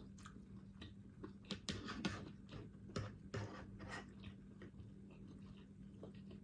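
Faint close-up chewing and mouth smacks from a person eating, with a run of sharper clicks in the middle few seconds.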